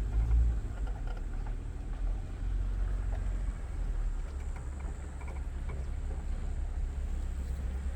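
Jeep engine and drivetrain running at low speed, heard from inside the cabin as a steady low rumble with a few faint ticks and rattles.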